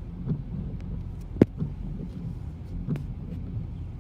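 Car cabin road noise: a steady low rumble from the moving car, with a few light knocks and one sharp click about a second and a half in.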